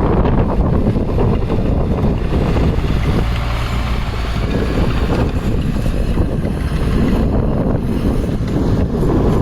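Loud diesel engine of heavy earthmoving equipment running steadily.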